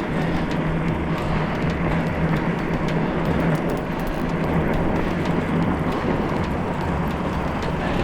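Fat-tire e-bike riding on a snowy road: steady wind and tire-on-snow noise, with a steady low hum and faint scattered ticks.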